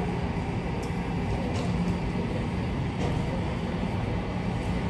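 Steady low mechanical hum and rumble with a constant low tone, and a few faint clicks.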